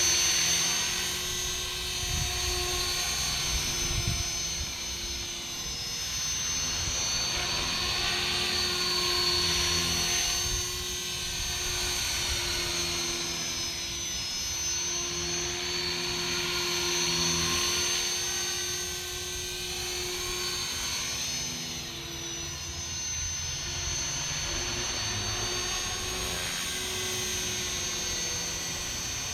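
Radio-controlled helicopter in flight, its motor and rotor giving a steady high whine that swells and fades gently as it moves about, with wind rumbling on the microphone.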